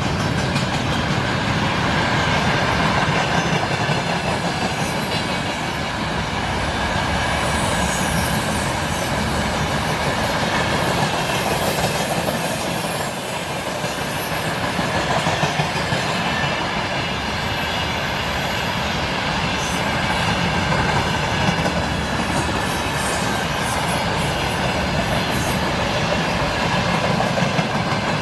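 Freight train wagons rolling past with a continuous rumble and clatter of wheels over the rails. A thin high squeal of the wheels comes and goes, about a third of the way through and again later.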